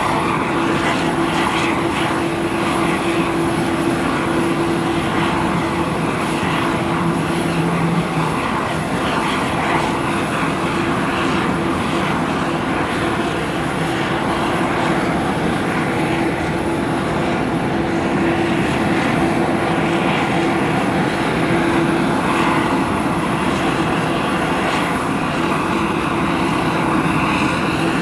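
Aircraft engine running steadily, a continuous drone with a held mid-pitched hum and no build-up or fade.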